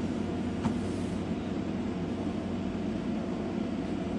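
Steady low background hum, with a single faint click about two-thirds of a second in.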